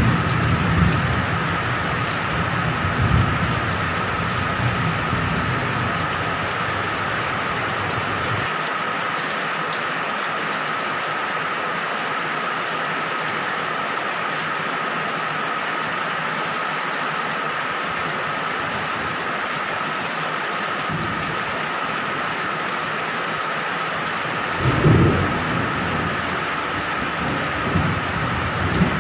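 Steady, even rain at night, with low rolling thunder during the first several seconds and again near the end, where a louder rumble swells up.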